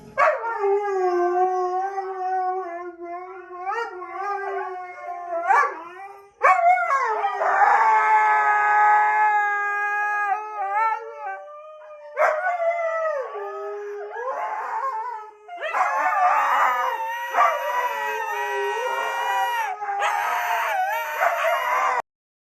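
Dogs howling in long, wavering calls that glide up and down in pitch, with several howls overlapping in the last few seconds before the sound cuts off suddenly.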